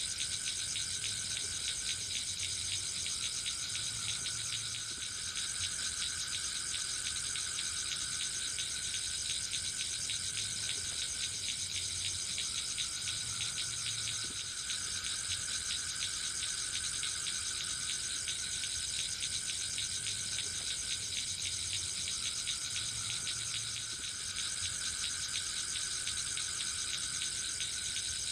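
A dense chorus of forest insects trilling steadily, with several layers of high-pitched pulsing song.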